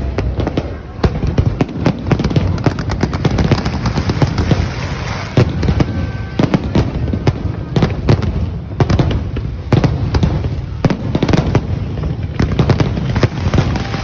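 Fireworks display: a rapid, unbroken barrage of bangs and crackles over a deep rumble of booms.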